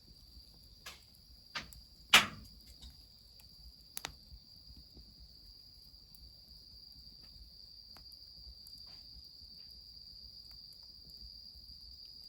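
Crickets trilling steadily and high-pitched, with a few sharp pops and ticks from the wood fire; the loudest crack comes about two seconds in, and a quick double tick about two seconds later.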